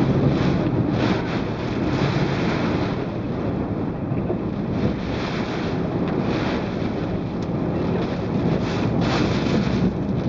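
Strong typhoon wind gusting across the microphone in surges every second or so, with a low vehicle hum underneath.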